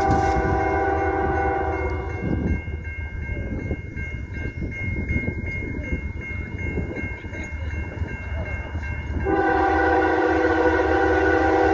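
A CN diesel freight locomotive's air horn blowing a chord of several tones. It cuts off about two seconds in and sounds again for the last couple of seconds, over the steady low rumble of the train.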